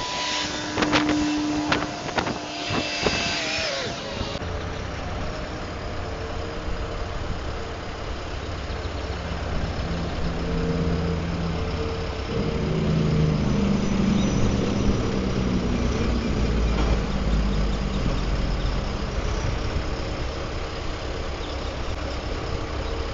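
Truck engine idling steadily, its note growing louder and rising a little partway through. Clicks and knocks sound in the first few seconds.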